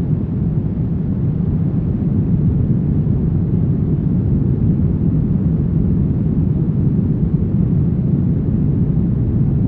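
Brown noise: a steady, deep rumbling hiss, strongest in the bass and dull in the treble, with no changes or events.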